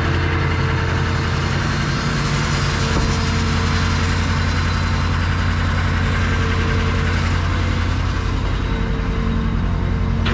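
Rollback tow truck's engine running steadily at high idle with the PTO engaged to drive the bed's hydraulics, a steady hum and faint whine riding over the engine note.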